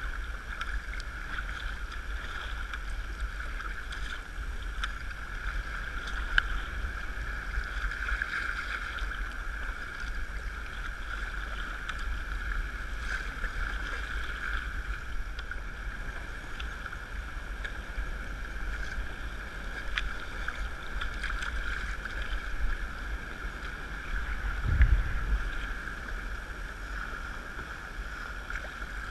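A sea kayak under way: steady water noise around the hull and paddle, with wind rumbling on the microphone. There are a few faint knocks, and a louder low thump near the end.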